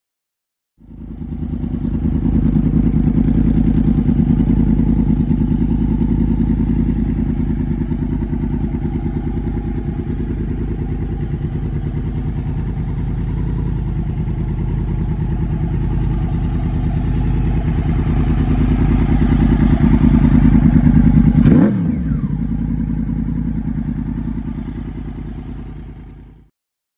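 Yamaha YZF-R1 crossplane inline-four running steadily at idle through a Hotbodies MGP steel full exhaust. It swells in loudness for a while, drops suddenly about 21 seconds in, and fades out near the end.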